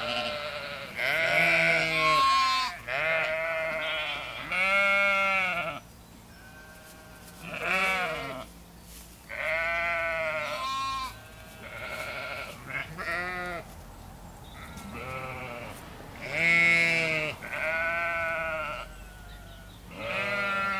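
Sheep bleating repeatedly: about a dozen quavering calls in quick succession with short gaps, some higher-pitched and some lower.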